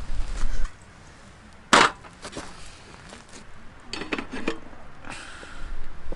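Camp cookware and cutlery being handled: one sharp clink about two seconds in, then a short cluster of small clatters a couple of seconds later.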